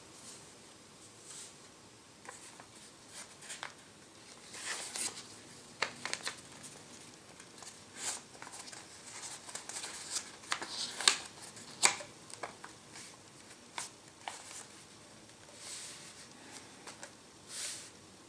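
A sheet of paper being folded and creased by hand into a paper airplane's wing: irregular rustles and crinkles, with short clicks as the fold is pressed flat.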